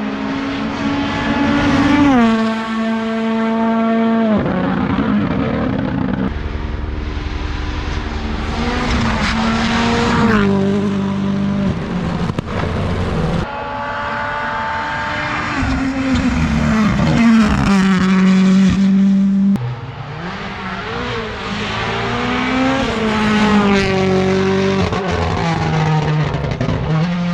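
WRC Rally1 hybrid rally cars' turbocharged 1.6-litre four-cylinder engines at full throttle, passing at speed. The engine pitch climbs through each gear and drops sharply at every upshift, over several passes joined by abrupt cuts.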